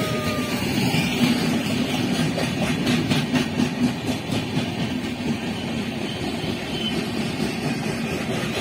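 Passenger train coaches running past at speed close by: a steady rumble of steel wheels on the rails, with a cluster of clicks over rail joints about three seconds in.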